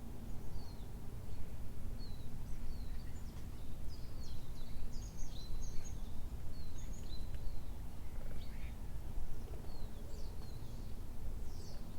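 Small birds chirping: many short, quick high calls scattered throughout, over a steady low rumble.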